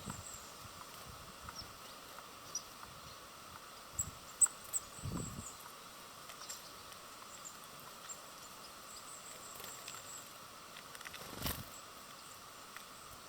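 Outdoor ambience at a bird feeder: faint, short chirps of small birds over a steady background hiss, with a few sharp taps about four seconds in and a knock near the end.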